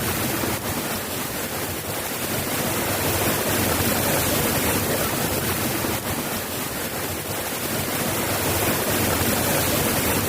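Steady soft rain: an even hiss of falling water with a few sharper drop ticks.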